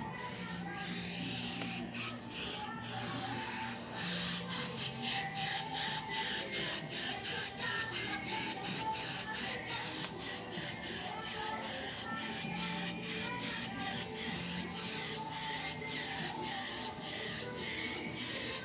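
Rhythmic rubbing strokes on a refrigerator's metal body, about two to three a second, beginning about four seconds in, over background music.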